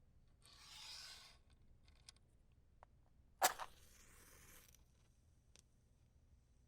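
A wooden match struck once on its box with a sharp scrape, flaring into about a second of hissing. Before it comes a soft one-second rush of air, and a few light ticks as the matches are handled.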